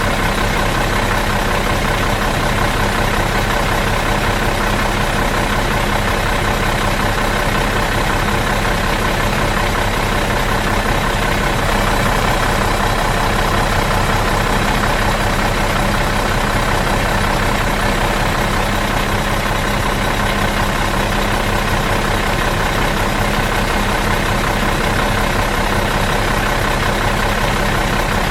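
Bus engine idling out of gear, a steady, unchanging drone with several held tones over a low rumble.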